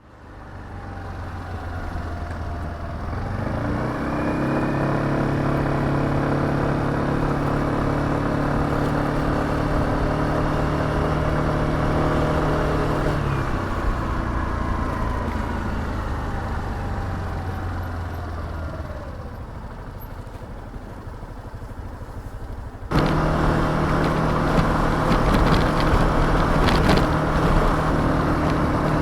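Suzuki Address 125 scooter's single-cylinder four-stroke engine running while riding, with wind and road noise. It speeds up a few seconds in, holds steady, then eases off and quietens, and a louder stretch of steady running starts suddenly near the end.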